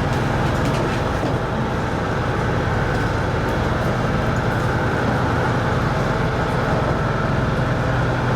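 A fishing boat's engine running steadily: a continuous low drone under an even rush of noise.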